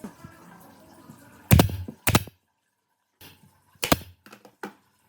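A few sharp knocks: two about a second and a half in, then two more near the end, with a brief dead silence between them.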